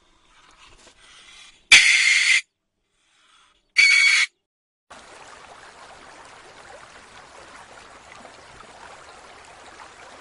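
Two short, loud meerkat calls about two seconds apart. About halfway through they give way to a steady hiss of aquarium water.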